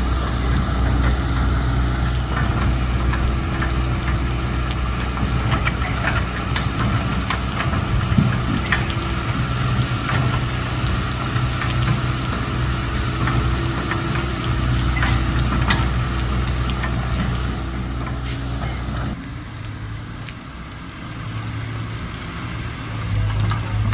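Heavy diesel engines running steadily under load, with scattered clanks and knocks. About nineteen seconds in the deepest engine note drops away, and a lighter engine note carries on and swells near the end.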